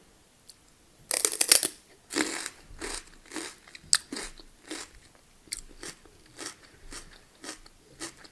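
A loud crunchy bite into food about a second in, another soon after, then steady crunchy chewing at about two chews a second.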